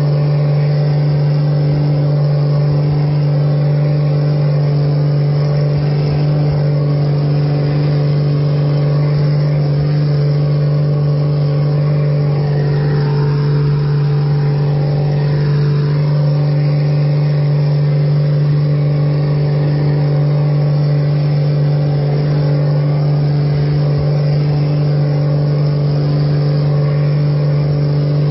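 Steady low drone of an aircraft's engines, one strong constant hum with a few fainter, higher steady tones above it.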